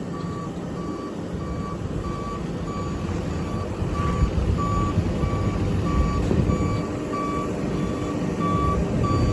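Truck backup alarm beeping steadily at about two beeps a second over the truck's engine running, the rumble slowly growing louder.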